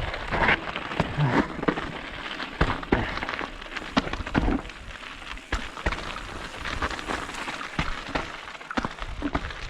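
Mountain bike rolling over a rough, stony trail: tyres crunching on gravel, with the frame and components rattling and knocking at irregular intervals over rocks.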